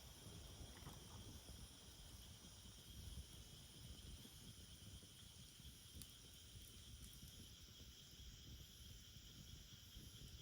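Faint steady chorus of insects trilling in several high, even pitches, over a low rumble, with a few faint ticks.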